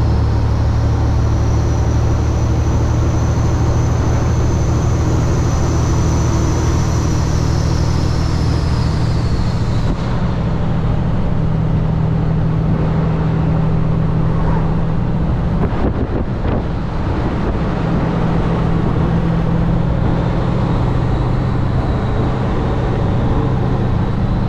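Loaded Kenworth W900 semi truck's diesel engine pulling hard up a steep hill at high RPM. A high whine runs over the engine and fades out about ten seconds in, and the engine note briefly drops around sixteen seconds.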